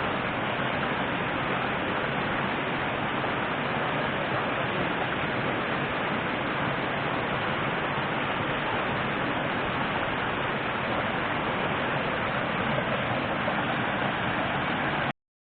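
Steady rushing noise of flowing river water, cutting off abruptly near the end.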